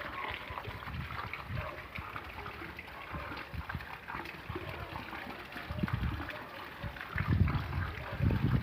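Rainwater trickling and splashing in a steady run. Several heavier low rumbles come through in the second half.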